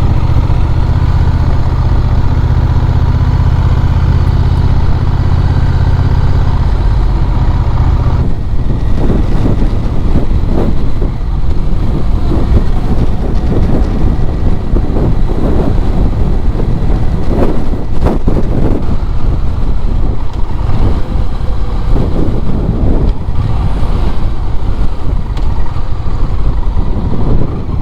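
Motorcycle running at road speed, with wind buffeting the microphone. A steady low engine drone dominates at first; about eight seconds in it drops back and gusty wind rush takes over.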